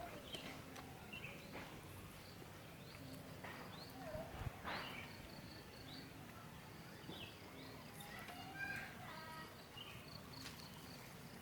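Faint outdoor ambience: scattered short bird chirps over an insect's steady, rapidly pulsing call, with a few soft clicks and rustles.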